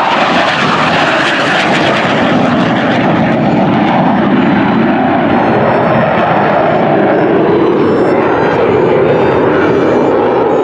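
F-15 Eagle fighter jet's twin turbofan engines, loud and steady, during a low pass. The highest part of the noise fades after about two seconds and the sound settles into a lower, steady jet noise as the aircraft moves away.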